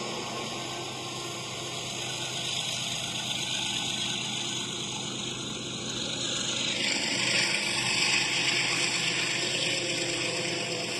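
A train running, heard as a steady rushing noise that swells and changes about seven seconds in.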